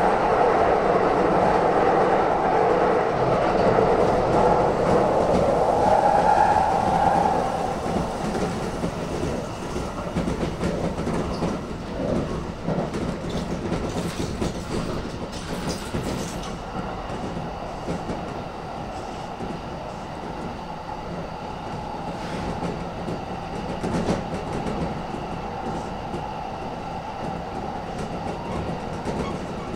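Electric commuter train running between stations, heard from inside the car, with the clatter of wheels over rail joints. The running noise is louder for the first seven seconds or so, then drops and stays steady.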